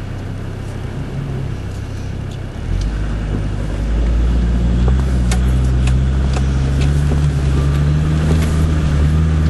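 4x4 engine running while off-roading up a rough track, heard from inside the cab, with a steady low drone that gets louder about three seconds in as it takes more load. Scattered light clicks and knocks over it.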